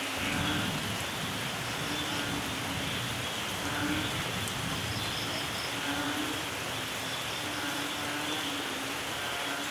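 Steady heavy rainfall in a rainforest, with a low rumble of thunder that comes in at the start and rolls on underneath. Frogs call in short repeated bouts through the rain.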